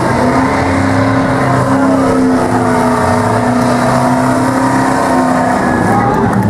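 Several stock car engines running steadily at speed, their pitches overlapping and holding level.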